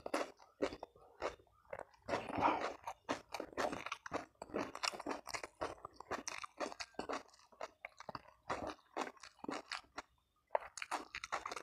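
A person chewing and crunching crunchy food in close, irregular bites, with a short pause about ten seconds in.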